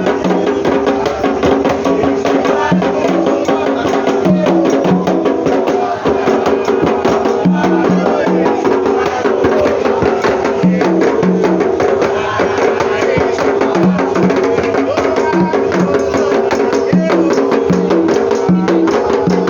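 Percussion-driven music with voices singing: a clicking, wood-block-like beat over drums. It plays steadily throughout.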